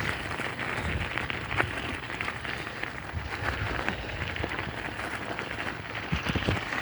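Bicycle tyres rolling steadily over a rough alley surface, a constant crackling hiss, with wind rumbling on the microphone.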